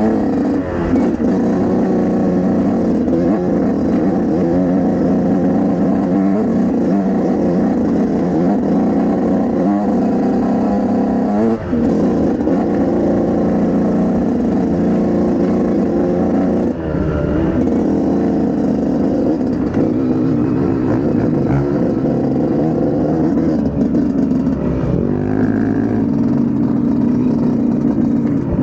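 Dirt bike engine running hard on a trail ride, its pitch rising and falling with the throttle, with brief let-offs about twelve and seventeen seconds in.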